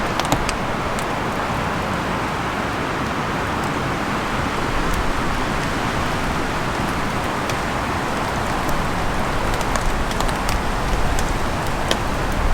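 Steady rain falling, with scattered sharp drops ticking close by and a low rumble of wind buffeting the microphone that grows near the end.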